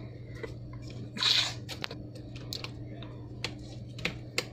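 Light ticks and clicks of a small screwdriver working the screws out of a Samsung Galaxy E5's frame, over a steady low hum, with a short hiss about a second in.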